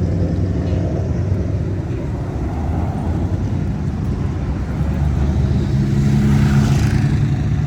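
Engines of cars cruising past on the street: one fades away early, then another car's engine rises in level from about five seconds in and is loudest near the end.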